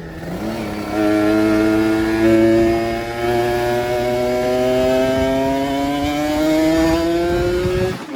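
Two-stroke motorcycle engine of a Kawasaki Ninja RR running under load, its note climbing slowly and steadily in pitch as it pulls, after a quick step up about half a second in.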